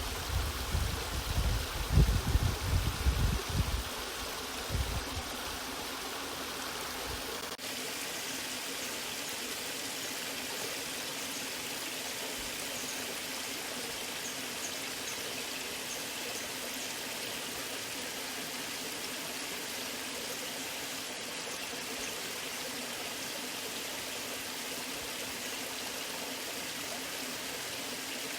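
Waterfall water rushing and splashing steadily. For the first few seconds loud, uneven low rumbling bursts sit under the rush, until they cut off abruptly about seven and a half seconds in.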